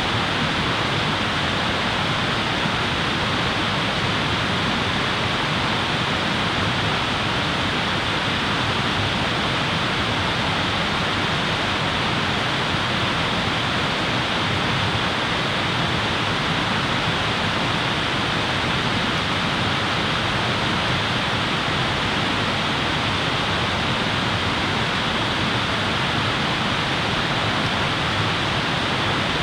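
Steady, even rushing noise that does not change, with no crackles or knocks in it.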